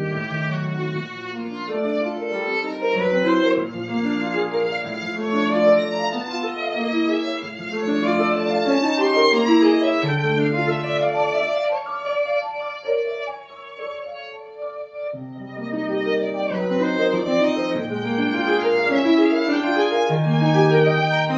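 A bowed string instrument, violin by the sound, playing a slow, singing melody with wavering sustained notes over a lower accompanying line.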